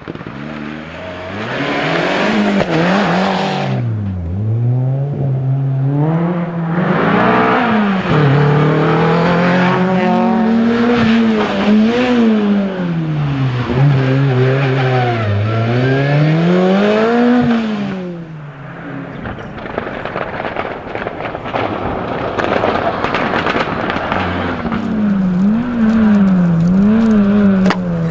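Rally car engine revving hard, its pitch climbing and dropping again and again as it goes up and down through the gears. It is loud for most of the first eighteen seconds, then falls back, and the revving picks up again near the end.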